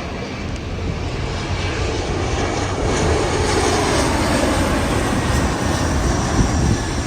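Airliner jet engines with a loud, steady rushing noise and low rumble that swells over the first few seconds.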